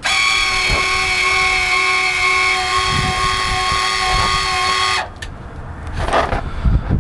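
12-volt electric lift actuator on a Craftsman garden tractor's snow blower hitch running through its stroke: a steady electric whine that starts suddenly and cuts off about five seconds in, followed by a few knocks.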